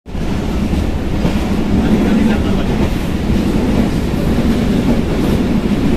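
Interior running noise of a passenger coach travelling at about 85 km/h: a steady, loud rumble of wheels on rail, with the coach rattling.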